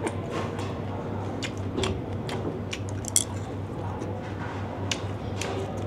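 A person biting and chewing fried pomfret with raw vegetables close to the microphone: a run of short crisp crunches, one sharper click about three seconds in, over a low steady hum.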